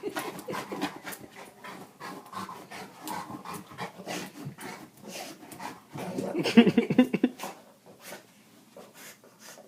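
Dog panting as it chases and paws at a dropped metal padlock, with rapid clicks and scrapes of the lock and its claws on the floor. A louder flurry comes about six seconds in, then it quiets down.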